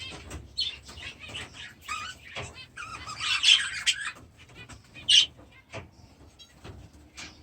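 Aviary birds chirping and chattering in short scattered calls, with a dense burst of chatter about three seconds in and a sharp, loud call about five seconds in.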